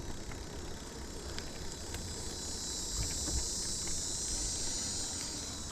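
Wind rumbling on the microphone as the e-bike rolls along, with a few light clicks and a steady high hiss that swells from about halfway through.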